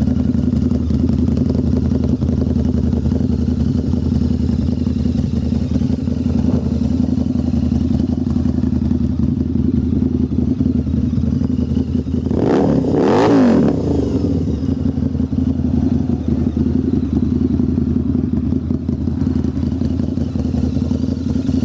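2015 Harley-Davidson V-Rod Muscle's 1250 cc liquid-cooled V-twin idling steadily through a Vance & Hines 2-into-1 exhaust. A little past halfway it gets one throttle blip: the pitch rises and falls back to idle.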